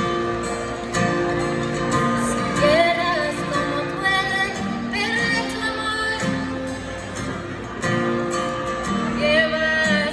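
A woman singing a melody with vibrato over strummed acoustic guitar.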